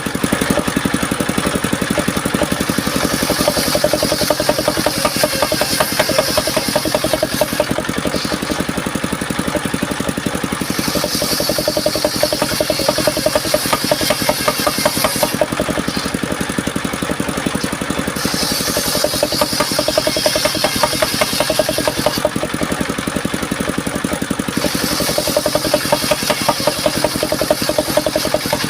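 The engine of a homemade circular-saw sawmill runs steadily with a fast, even pulse, while the saw blade cuts mahogany four times, each cut lasting about four to five seconds and adding a high hiss.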